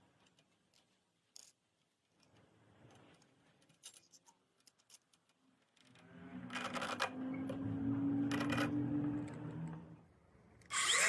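A few small handling clicks, then an angle grinder runs for about four seconds starting about six seconds in, and starts up again near the end.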